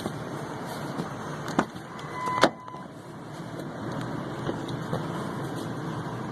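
2001 Ford F-150 engine idling steadily after a cold start. Two sharp knocks come about one and a half and two and a half seconds in; the second is the loudest and comes with a short beep.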